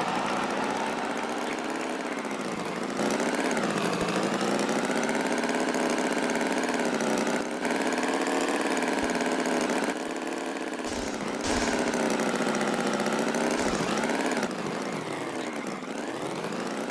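A buzzing engine running, its pitch sagging and rising in slow sweeps, with sudden jumps in loudness every few seconds.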